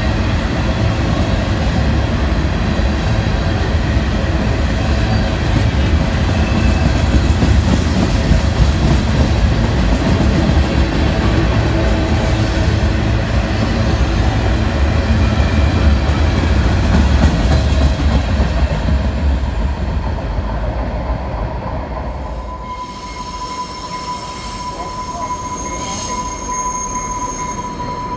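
Freight train of boxcars rolling past close by: a loud, steady low rumble of wheels on rail. About three-quarters of the way through, the rumble drops away and a steady high-pitched tone carries on to the end.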